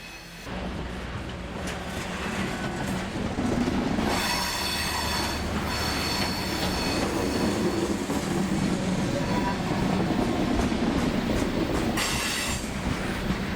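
Freight train rolling past with its wheels squealing: a long squeal about four seconds in and a short one near the end, over the rumble of the diesel locomotives and the cars.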